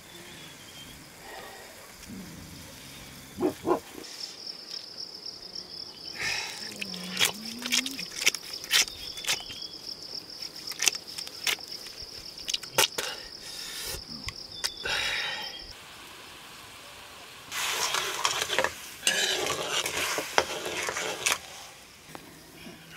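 Green beans and chillies sizzling in a black iron wok over a wood fire. Through the middle an insect's steady high-pitched trill runs under scattered clicks, and near the end the wok hisses and sizzles hard for about four seconds as it throws up steam.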